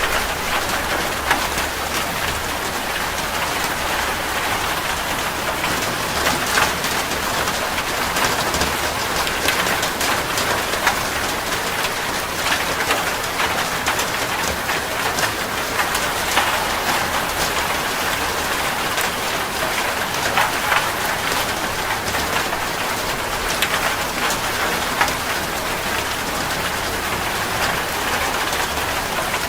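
Steady rain falling, with many separate sharp drop impacts heard through the even hiss.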